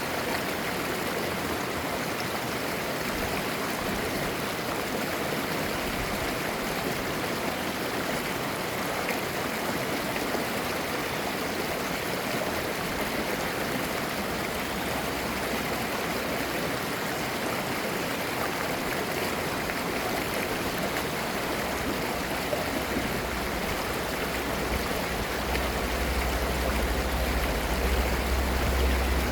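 Clear mountain stream babbling steadily over rocks. A low rumble joins in near the end.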